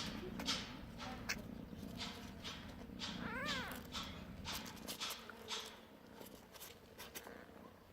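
Newborn kittens tussling, with scratchy rustling throughout and one short, thin mew that rises and falls about three and a half seconds in.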